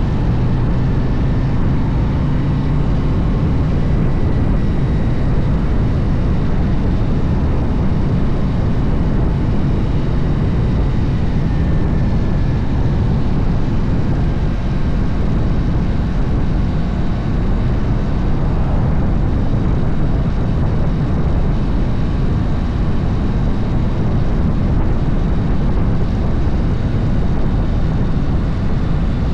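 Harley-Davidson motorcycle ride heard from on board: a steady engine drone under a thick rush of noise, with no change in pace.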